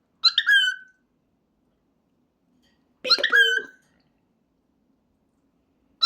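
Cockatiel repeating its 'peek-a-boo' mimicry. A short high chirp comes about a quarter second in, a lower, speech-like call about three seconds in, and the same high chirp again right at the end.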